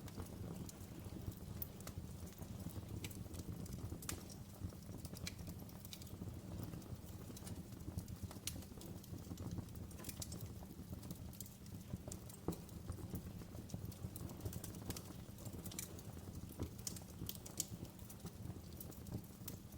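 Fireplace fire crackling: irregular sharp pops and snaps scattered over a steady low background of the burning fire.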